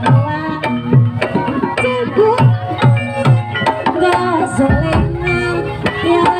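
Javanese gamelan music accompanying a barongan dance: kendang hand drums playing a steady beat, their low strokes bending in pitch, over ringing metallophone and gong-chime notes.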